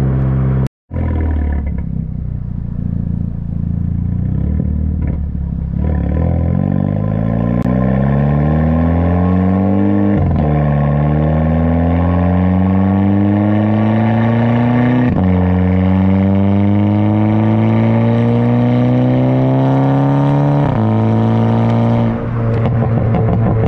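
Tuned VW GTI's turbocharged four-cylinder pulling hard through an aftermarket titanium exhaust. The engine pitch climbs and drops sharply at three quick DSG upshifts, then it lifts off and settles to a steady cruise near the end.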